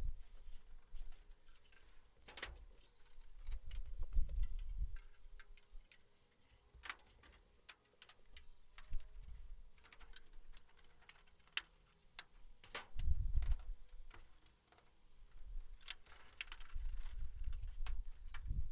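Irregular light clicks and taps with a few dull low thumps: hand work on a thin aluminium angle being bent and adjusted, with hand tools picked up and set down.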